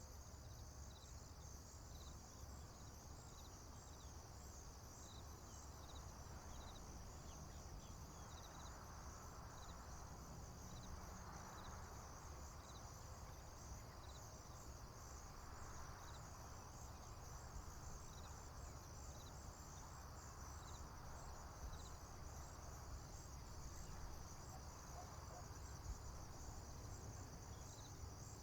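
Faint, steady chorus of crickets and other field insects: a continuous high trill with a regular chirp about twice a second running through it, over a low steady rumble.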